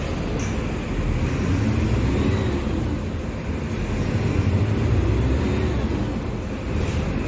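Mercedes-Benz OF-1721 Bluetec 5 bus's four-cylinder diesel engine running with a low rumble, its pitch rising and falling twice.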